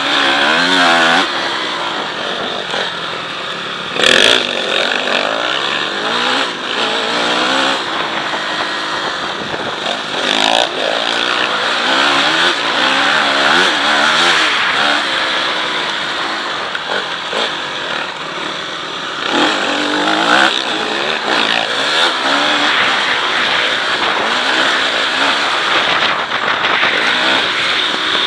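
Motocross bike engine revving hard on a lap, its pitch climbing and dropping again and again through throttle changes and shifts, with steady rushing noise over it. A couple of sharp thumps cut through, one about four seconds in and another about ten seconds in.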